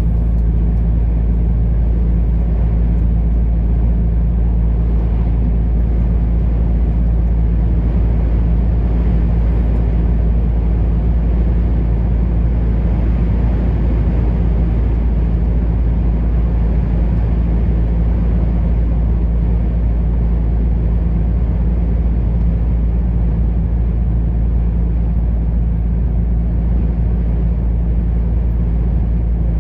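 Truck engine and road noise while driving, a steady low rumble that holds even throughout.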